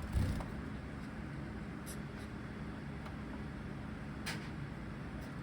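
Zebra finch cage sounds over a steady low hum: a soft bump just after the start, then a few very short high ticks or chirps, the clearest about four seconds in.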